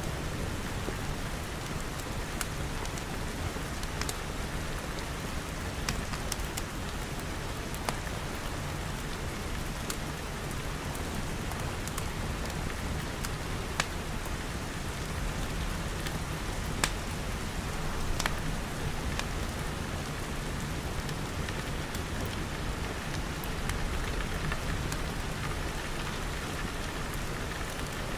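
Steady rain pattering on glass, with a deep rumble underneath. Scattered sharp crackles from a wood fire come every second or two.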